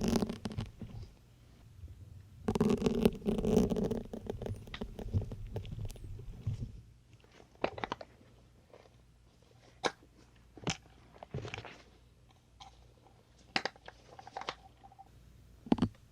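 Syringe needles being pushed into a soft blue foam sponge close to the microphone, giving crunchy squeaking pushes. Stretches of dense crunching come at the start and again from about two to six seconds in, followed by scattered single sharp clicks.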